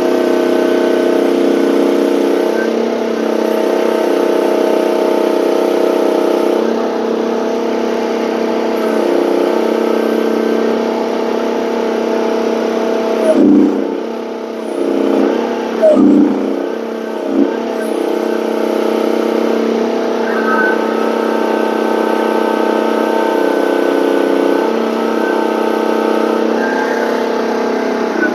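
Gasoline engine of a one-ton mini excavator running loud at working speed while the rake attachment rips up ground, its pitch shifting as the hydraulics take load. A few sharp knocks come about halfway through.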